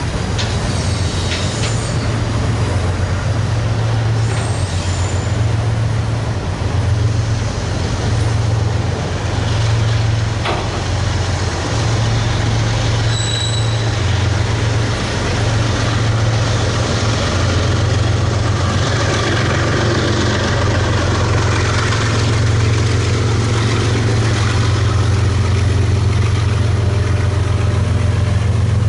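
Diesel freight locomotive engine running with a loud, steady low drone that swells slightly near the end. There is a brief high squeal about halfway through.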